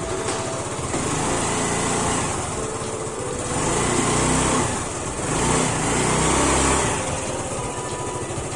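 Yamaha Ray scooter's single-cylinder four-stroke engine running on freshly changed engine and gear oil. It is revved up and let back down three times.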